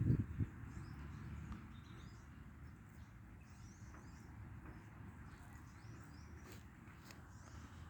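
Small birds chirping and twittering faintly in forest, short scattered calls throughout, over a low rumble that is loudest in the first half second.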